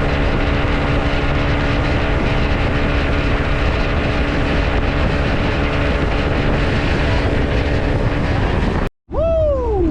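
Outboard motor of a small aluminum boat running steadily under way, with wind and water noise. After a sudden cut near the end, a single pitched sound glides down.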